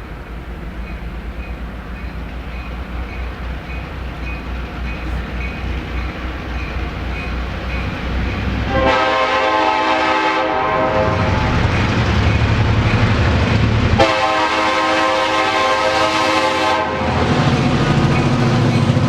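EMD MP15AC diesel switcher approaching and growing steadily louder, with faint regular dinging about three times a second in the first half. About halfway through its five-chime horn sounds two long blasts back to back over the engine's drone.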